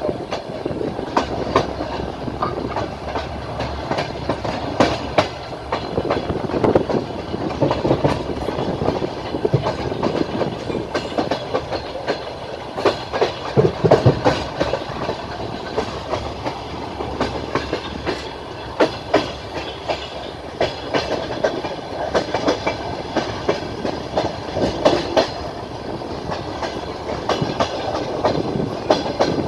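Passenger train wheels clattering over rail joints as the train runs at speed, over a continuous rolling rumble, with sharp knocks scattered irregularly throughout.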